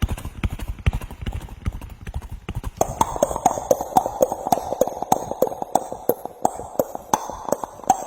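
A man imitating a horse's trotting hoofbeats with his mouth: a fast, even run of clicks, about five a second, that turn louder and more hollow about three seconds in.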